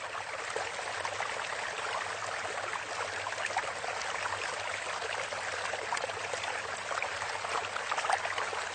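Running water trickling and splashing steadily, cutting off abruptly at the end.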